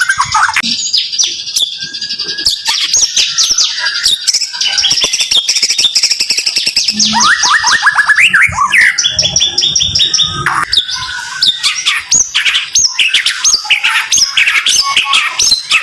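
White-rumped shama (murai batu) singing fast, close-packed runs of short, sharp repeated notes, the rapid-fire 'tembakan rapat' song.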